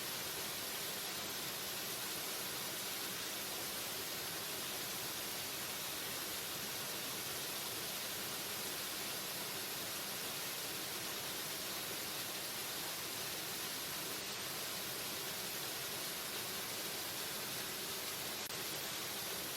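Steady rush of a waterfall, an even hiss without change or distinct events.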